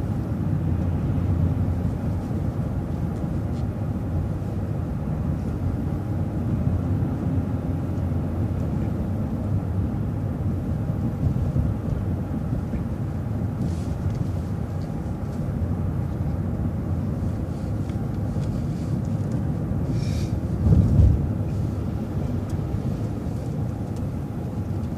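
City bus in motion: a steady low engine and road rumble, with a louder bump about twenty seconds in.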